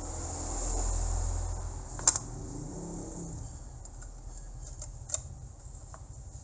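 Handling and reassembly of a network switch's case: scattered clicks and knocks, with a sharp click about two seconds in and a smaller one near five seconds, over a low rumble at the start.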